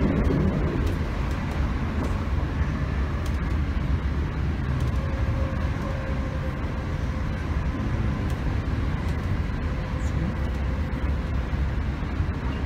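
Class 321 electric multiple unit running along the line, heard from on board: a steady low rumble with wheel and track noise and a faint steady whine in the middle.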